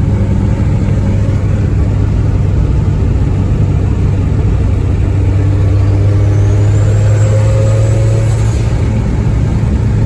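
Tuned 450 hp Honda Civic EP3 cruising with a steady engine drone, running smoothly after fueling adjustments. A faint high whine rises about six seconds in and holds.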